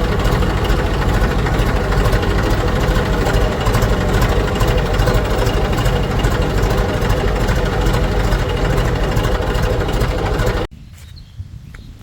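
Heavy diesel engine of a backhoe loader or tractor running steadily close by, with a deep rumble. It cuts off abruptly near the end, leaving a much quieter background.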